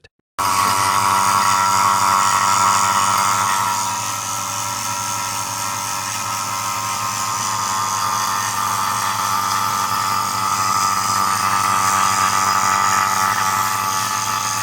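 Electric refrigeration vacuum pump running steadily with a motor hum and a high whine, evacuating a refrigerator's sealed system through manifold gauges to pull out moisture. Its level dips slightly about four seconds in, then holds steady.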